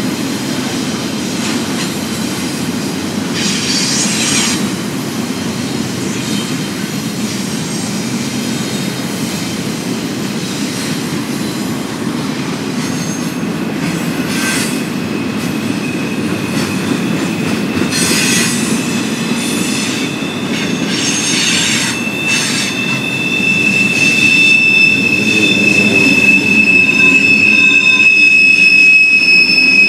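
Double-stack intermodal freight cars rolling past with a steady rumble, the wheels squealing in high tones that come and go. About two-thirds of the way through, one high squeal sets in and holds, and the passing train gets louder.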